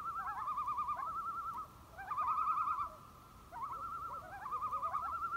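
Common loons giving tremolo calls: fast quavering wails in three bouts, overlapping, with short gliding notes in between.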